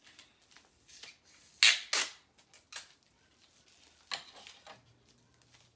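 Bubble wrap being handled and wrapped around a small bottle: a run of short crinkling rustles, loudest about two seconds in.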